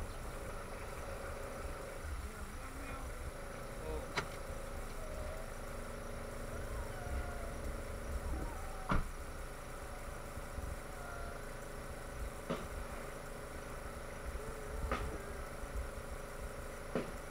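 Car engine running in street traffic: a steady low rumble with a steady hum, broken by about five sharp knocks, the loudest about nine seconds in.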